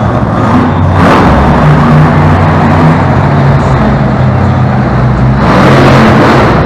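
Monster truck engine running at full volume during freestyle, revving in surges about a second in and again near the end.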